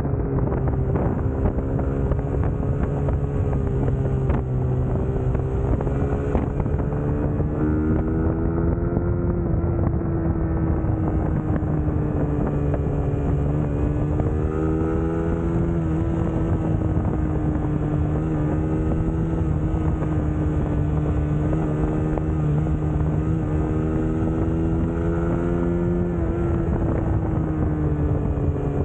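Suzuki GSX-S150's single-cylinder engine running under way at a steady cruise, its pitch easing gently up and down with the throttle a few times, with wind noise on the microphone.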